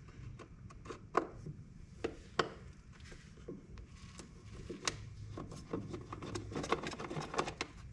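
Hand tools clicking and knocking against an ATV's air box as its screws are worked at. The knocks are scattered at first, and a quicker run of small clicks follows in the last few seconds.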